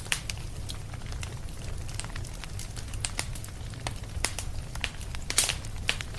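Wood fire burning in a fireplace: a steady low rumble with irregular sharp crackles and pops, the loudest pop a little past the middle.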